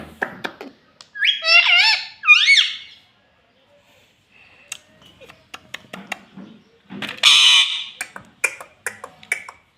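Pet parrot calling: a run of high, sliding, chirpy calls about a second in, then a loud harsh squawk about seven seconds in, with scattered small clicks and short calls between and after.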